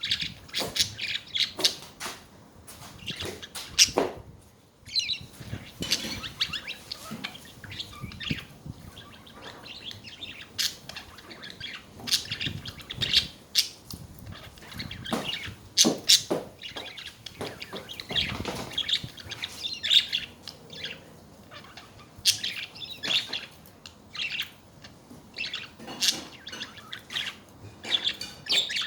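Pet budgerigars chattering: a continuous run of short, high chirps and warbles broken by sharp clicks and a few louder calls.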